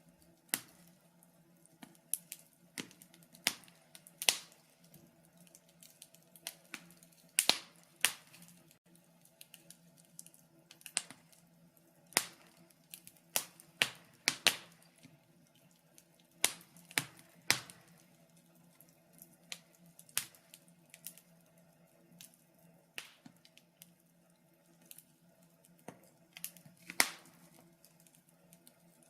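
Wood fire crackling, with irregular sharp pops and snaps, a few much louder than the rest, over a faint low steady hum.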